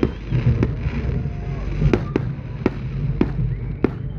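Fireworks display: a string of sharp bangs from bursting shells, about seven in four seconds at uneven intervals, over a steady low rumble.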